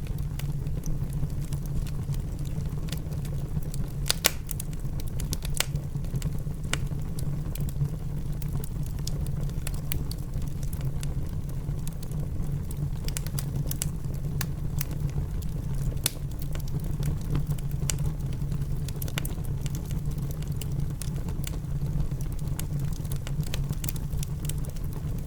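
Wood fire in a fireplace crackling with irregular sharp pops, over a steady low rumble of rain; the loudest pop comes about four seconds in.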